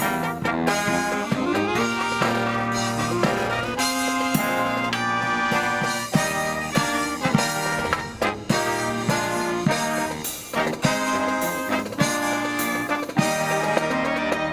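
Marching brass band playing a Christmas medley: trumpets and trombones in sustained chords and melody over drum strokes keeping a steady beat.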